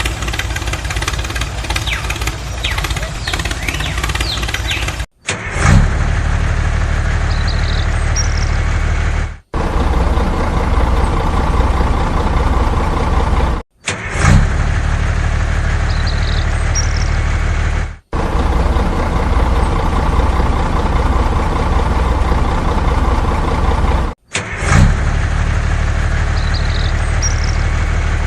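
Engine sound effect starting and running at idle. The same short recording repeats several times, each time after a brief dropout and a sharp surge as it starts again.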